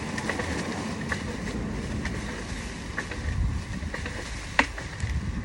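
Wind buffeting the microphone with a low rumble, broken by scattered small clicks and one sharp knock about four and a half seconds in.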